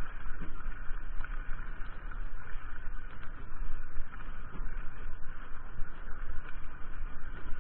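Mountain bike ridden along a trail: tyre rumble and frame rattles under a steady low buffeting on the microphone, the loudness jumping up and down with the bumps.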